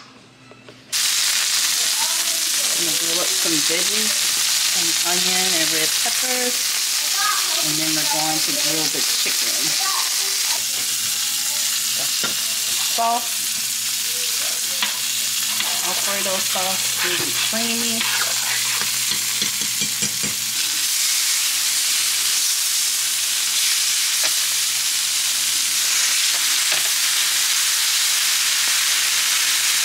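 Food frying in a hot pan: a steady, loud sizzle that starts abruptly about a second in, with scattered light clicks of a utensil against the pan.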